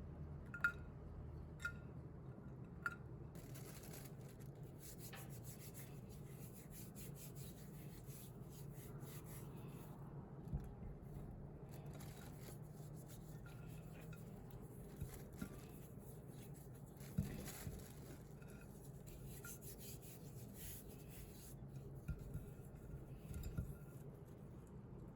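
Faint scattered clicks and light rubbing over a steady low hum.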